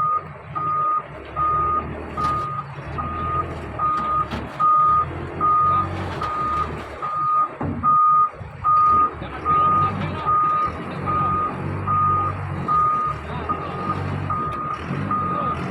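Reversing alarm beeping steadily at one pitch, about two beeps a second, over the low rumble of a diesel engine running.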